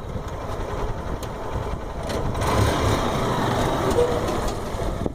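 Cargo motor tricycle's small engine running, a rough low rumble that grows a little louder midway.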